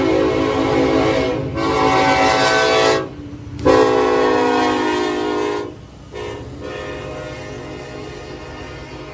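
Freight locomotive air horn sounding long blasts with short breaks between them over the low rumble of the train; after about six seconds the horn stops and the train's rumble carries on more quietly.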